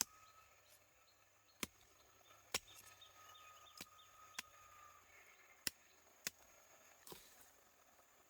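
A tool striking wood in about eight sharp, separate knocks at an uneven pace, typical of hand work on timber during a wooden house repair.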